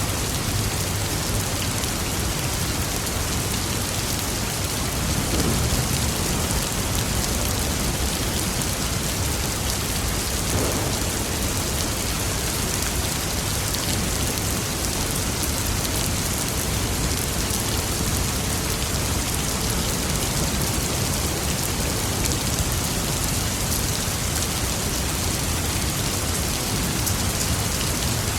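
Steady heavy rain falling on a surface, with a low thunder rumble underneath that swells slightly about five seconds in and builds again near the end.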